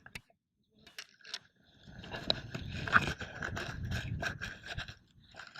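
Scraping and crackling of digging in wet beach sand for razor clams: a few scattered clicks, then a dense crackly scraping from about two seconds in that stops near the end.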